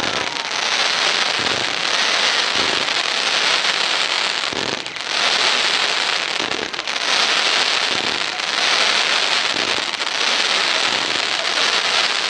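Consumer fireworks giving off a dense, continuous crackling, with a few brief dips in intensity.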